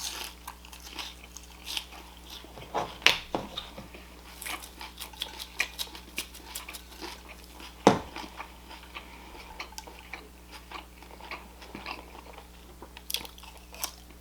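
Close-miked eating: wet chewing and crunchy biting with many small irregular clicks and smacks. Two sharper, louder knocks stand out, about three seconds in and about eight seconds in.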